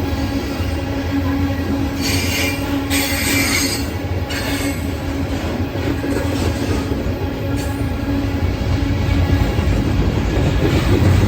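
Freight cars of a CSX coal train rolling past with a steady low rumble. Wheels squeal shrilly in two bursts, about two and four seconds in.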